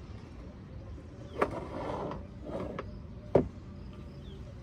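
Two sharp knocks, about a second and a half in and again a second later than halfway, the second one louder, over low background noise.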